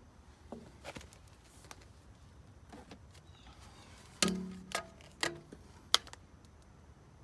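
Hollow knocks and clatter of PVC pipe and fittings being handled. The loudest knock, about four seconds in, rings briefly, and three sharper knocks follow within the next two seconds.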